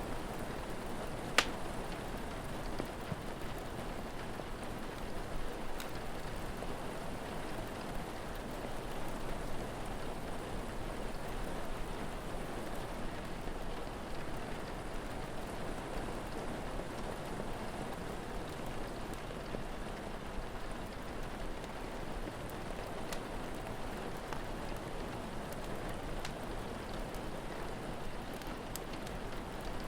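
Steady rain falling, with a few sharp pops from a crackling fire, the loudest about a second and a half in.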